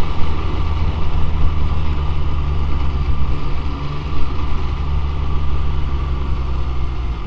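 MV Agusta Brutale 675's inline three-cylinder engine running steadily at low revs, its low note shifting near the end.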